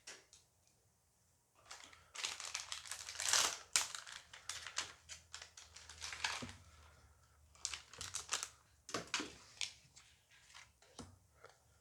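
Foil booster pack wrapper crinkling and tearing as it is ripped open and handled, an irregular run of crackles and small clicks, loudest about three seconds in.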